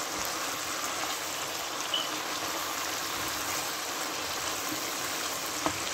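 Chicken pieces frying in hot oil in a pan: a steady, even sizzle.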